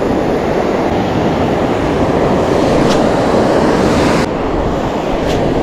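Steady rush of ocean surf against the shoreline, mixed with wind buffeting the microphone.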